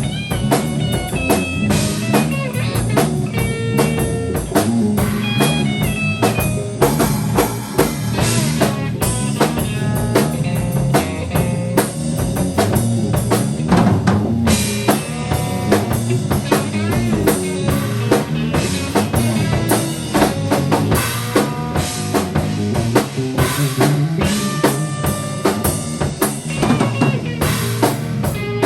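A band improvising: a drum kit playing busy rhythms, with bass drum, snare and rimshots, under guitar and other pitched notes.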